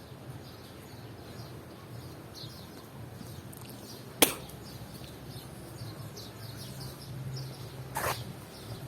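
Small birds chirping over and over in short, high, falling notes, with a sharp click about four seconds in and another near the end.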